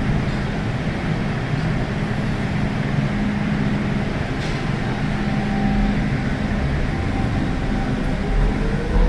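MTR M-Train electric multiple unit running on the Tsuen Wan line: a steady rumble of wheels and running gear with a constant motor hum, and a rising tone from the traction equipment near the end.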